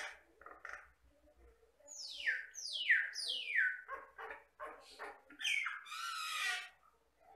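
Jalak Batam (common myna) singing: three steep falling whistles about two seconds in, followed by short harsh notes and a long buzzy, rasping call near the end.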